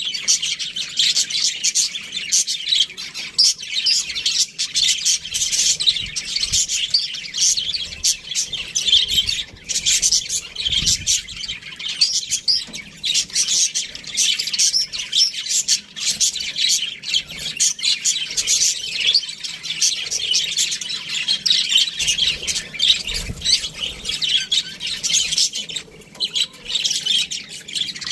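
A flock of budgerigars chirping, chattering and squawking all at once, a dense unbroken chorus of high chirps.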